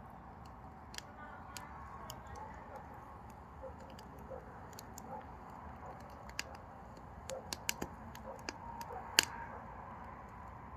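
Mini pine firewood burning in a wood stove: irregular crackles and snaps over a steady low fire noise, coming more often in the second half, with one sharp pop about nine seconds in.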